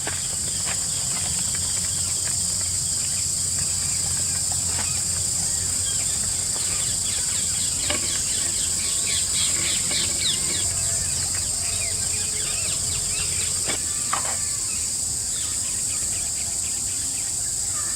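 Steady high-pitched chorus of forest insects running throughout, over a low steady hum. Midway there is a quick run of short ticking chirps. A few light knocks come later.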